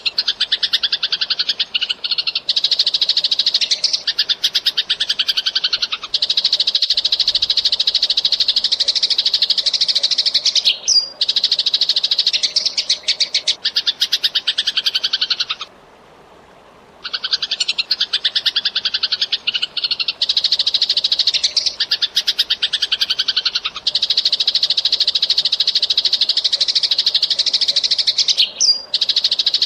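Eurasian tree sparrow (burung gereja) chattering in long, dense runs of very rapid chirps, broken by brief gaps and by a silent pause of about a second halfway through.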